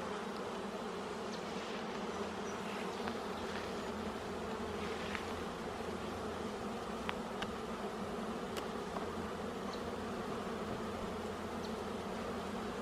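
Honeybee colony buzzing steadily around an opened hive during a frame inspection.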